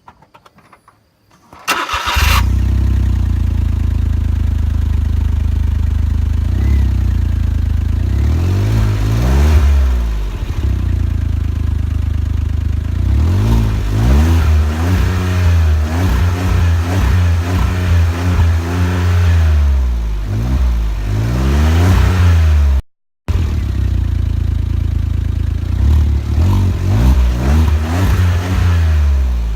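Smart ForTwo 451 three-cylinder engine breathing through a Carlsson aftermarket exhaust. It starts about two seconds in, idles, then is revved again and again in short blips, the exhaust note rising and falling. A brief break cuts in about two-thirds through.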